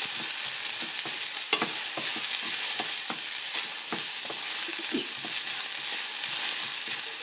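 Sliced okra frying in hot oil in a stainless steel pan: a steady sizzling hiss, with the spatula scraping and knocking against the pan a few times as it is stirred.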